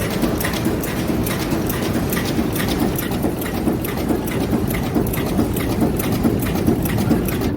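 Bearing ring cold forging machine running, with a regular knock about twice a second over a dense mechanical clatter.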